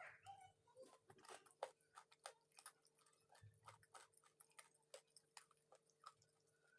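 Close-up chewing of chicken feet: irregular sharp clicks and crunches of skin, cartilage and small bones, a few each second.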